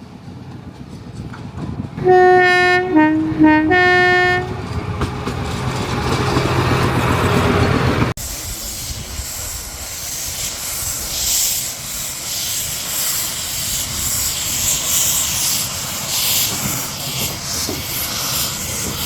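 Narrow-gauge steam locomotive whistle sounds for about two seconds, its pitch dropping in the middle and rising back. The train's noise then grows louder, and after an abrupt cut the train runs by with a steady clatter and hiss.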